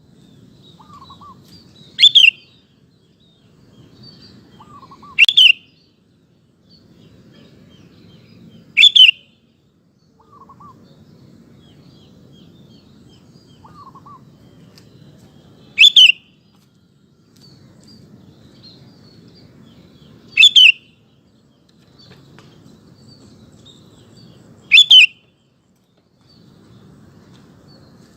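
Sooty-headed bulbul (kutilang) calling with loud, very short notes, six of them a few seconds apart. Between them there are faint lower chirps and a low background rumble.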